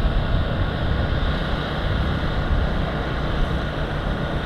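Steady low rumble and hiss of wind on the microphone, with faint steady tones above it.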